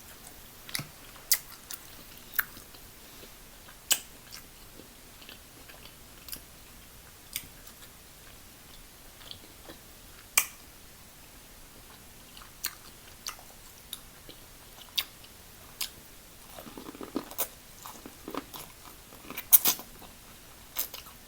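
Close-miked eating: chewing and biting with scattered sharp clicks and cracks, busier near the end.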